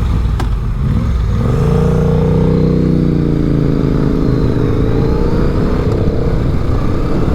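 Motorcycle engine running at road speed, likely the rider's Honda Rebel 500 parallel twin, over a steady low rumble of wind and road noise. Its note rises a little and eases off as the throttle changes.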